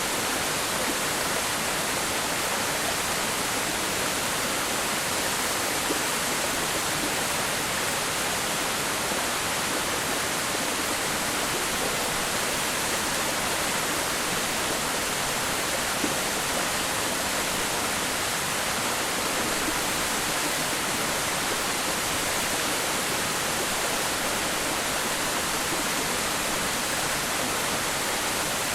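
Waterfall crashing into its pool: a steady, unbroken rush of falling water, bright and hissy, that does not change.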